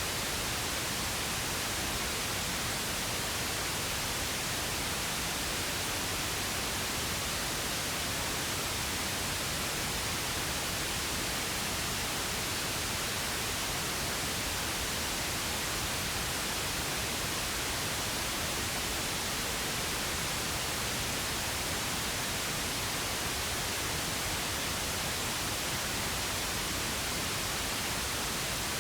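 Pink noise: a steady, unchanging hiss spread evenly across the whole range, with no events or changes.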